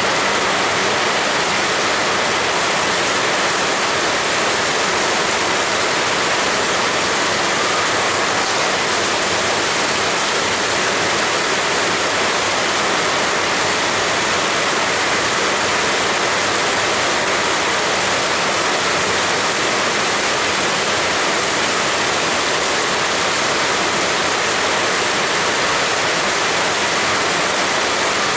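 Heavy rain pouring down steadily, a dense, even hiss with no single drops or thunder standing out.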